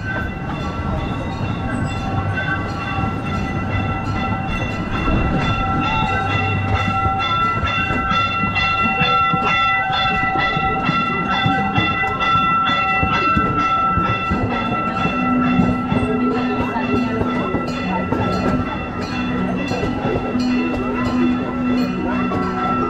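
Replica C. P. Huntington amusement-park train running along its track, heard from an open passenger car: a steady whine over a low rumble, with an even clicking of the wheels on the rails.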